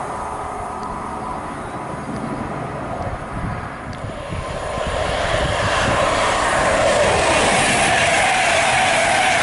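A TransPennine Express Class 185 diesel multiple unit running past, rumbling with a steady hum. After a cut about four seconds in, the sound rises to a louder, even rush of wheels and air as an LNER express train passes at speed close by.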